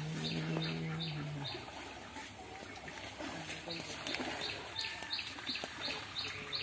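A bird repeating a short, high chirp over and over, about two or three times a second. A low held tone is heard over it for the first second and a half.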